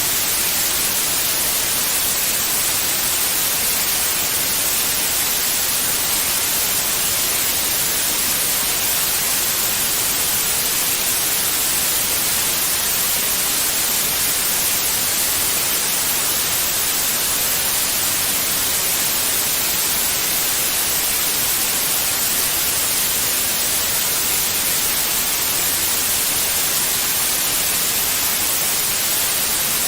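Steady white noise: a constant, even hiss, brightest in the high end, without breaks or changes, played as a soothing sound for babies.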